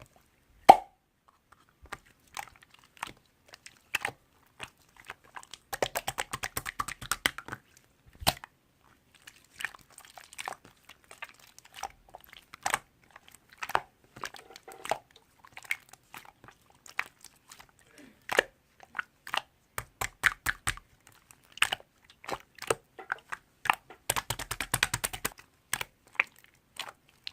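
Scattered sharp clicks and taps, with two runs of rapid, even clicking, one about six seconds in and one near the end, like bursts of typing.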